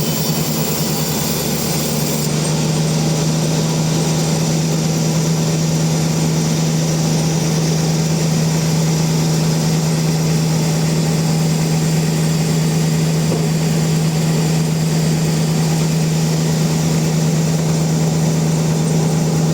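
Sawmill machinery running at a steady speed, with a constant low hum.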